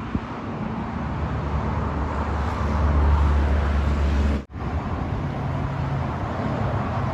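Outdoor road traffic noise: a steady wash of noise with the low hum of a passing car's engine swelling for a few seconds. It breaks off abruptly about four and a half seconds in, then similar traffic noise resumes.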